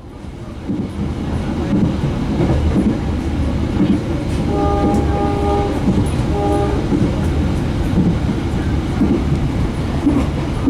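Passenger train running, heard on board as a steady rumble that fades in at the start. About four and a half seconds in, the train horn sounds three times: short, long, short.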